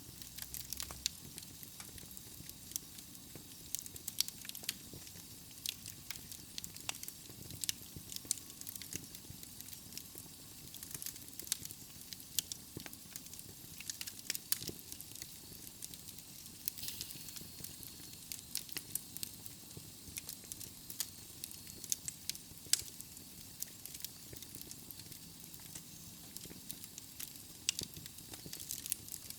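Wood fire burning in a fireplace: logs crackling and popping in irregular sharp clicks over a soft steady hiss.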